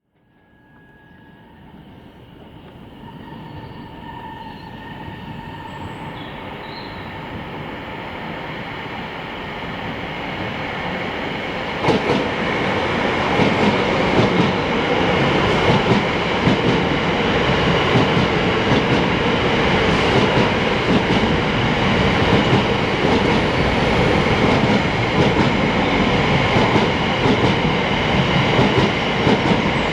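Two coupled Class 720 Aventra electric multiple units approaching and passing. Faint at first and growing steadily louder, with a sudden step up about twelve seconds in, then a continuous rumble of wheels on rail with a steady high whine.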